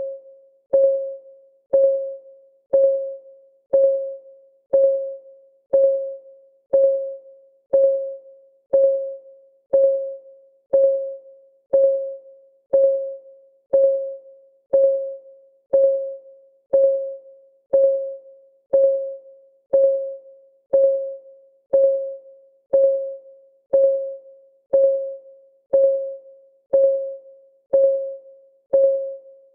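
Countdown timer's clock ticking sound: a steady, even tick about once a second, each tick a short pitched click that rings out briefly.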